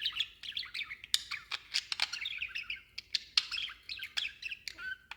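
Budgerigar chattering: a continuous rapid warble of chirps and squeaky notes, with sharp clicks mixed in.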